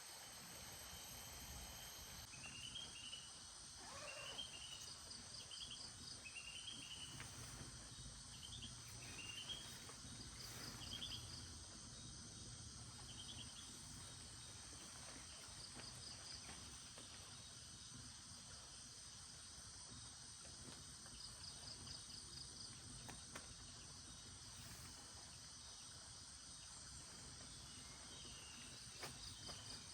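Faint tropical forest insect chorus: steady high-pitched trilling, with a short pulsed chirp train that repeats about every five seconds. In the first half there is a run of short rising chirps.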